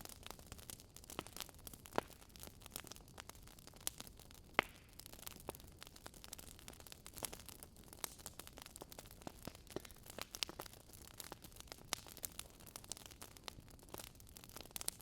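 Wood fire crackling: burning logs give off irregular sharp pops and snaps over a low steady hiss, the loudest pops about two seconds and four and a half seconds in.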